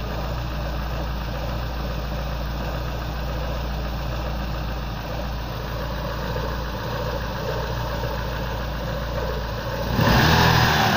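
Twin-cam petrol car engine idling steadily after its crankshaft timing-gear keyway was repaired, now running smoothly and responsive. A louder rush of noise comes in near the end.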